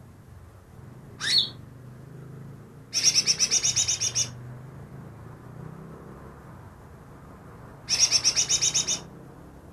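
Greater green leafbird (cucak ijo) singing: a short rising whistle about a second in, then two fast rattling trills of about a dozen rapid notes each, around three seconds in and again near the end.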